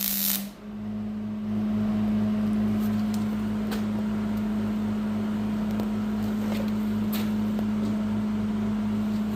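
A steady low mechanical hum with a pulsing undertone, and a few faint clicks.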